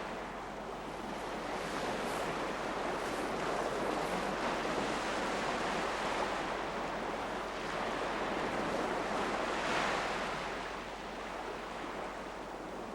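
Sea surf washing onto a beach, the wash swelling and easing in slow surges.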